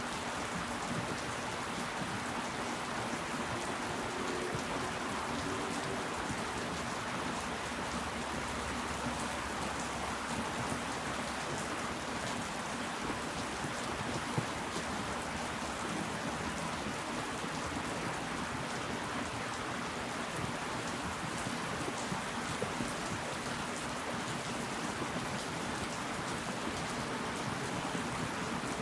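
Steady rain falling, with occasional louder individual drops.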